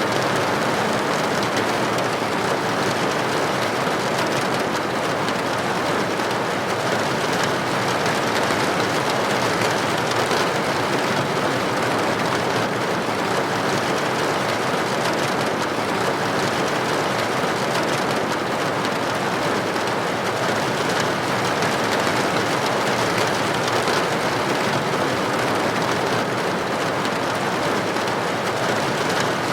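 Steady rain with drops hitting a building's window: an even, unbroken hiss with faint ticks of single drops through it.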